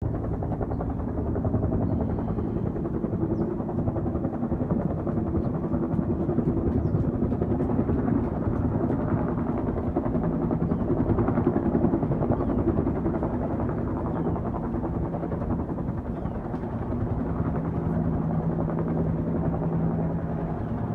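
Firefighting helicopter's rotor beating steadily overhead during a water drop, a little louder about halfway through. A low steady hum joins in near the end.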